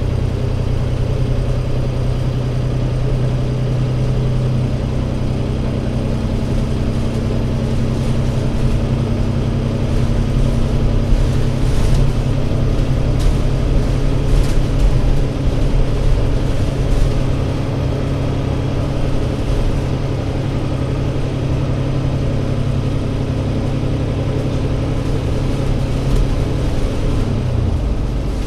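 Diesel engine of an ADL Enviro500 MMC double-decker bus running steadily, a low hum whose note shifts slightly now and then. It grows a little louder for several seconds midway.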